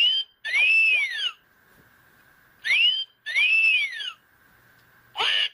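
Electronic talking toy parrot giving wolf whistles through its small speaker: a rising whistle followed by a longer rise-and-fall, twice, with a third rising whistle near the end.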